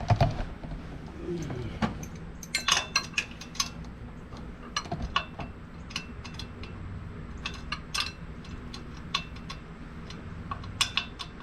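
Irregular metallic clinks and taps of hand tools and metal engine parts knocking together, some ringing briefly.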